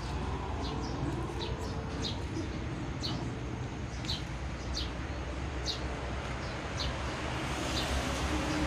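Small birds chirping, short high chirps roughly once a second, over a steady low rumble.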